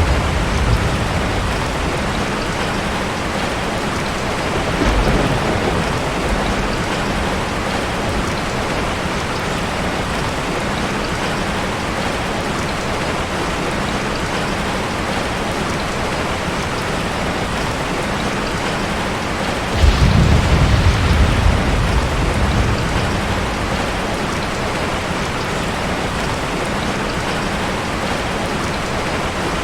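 Heavy rain falling steadily, with rolls of thunder: a low rumble fading in the first second, a short one about five seconds in, and a louder roll that starts suddenly about twenty seconds in and dies away over several seconds.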